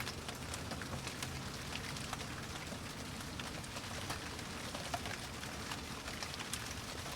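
Steady rain falling, with many separate drops pattering on a hard surface.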